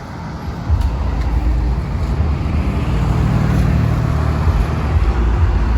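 A car engine running as a car drives by at low speed. Its low rumble comes up loudly about a second in and stays strong.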